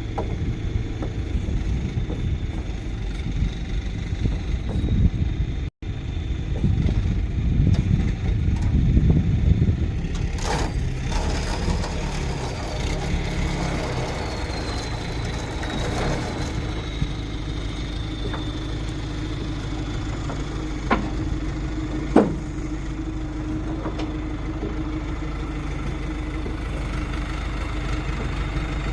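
Truck engine running with low road rumble while towing a trailer, louder in the first part and settling to a steadier hum later. Two sharp clicks a little over a second apart come about two-thirds of the way through.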